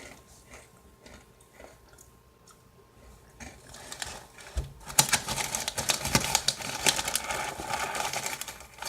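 A person chewing crunchy Goldfish crackers: a few faint clicks and rustles at first, then dense rapid crunching from about halfway through.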